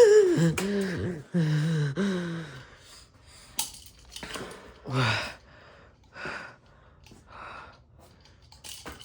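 A person's loud wordless cry lasting about two and a half seconds, followed by a string of heavy gasping breaths about a second apart, with a sharp click in between.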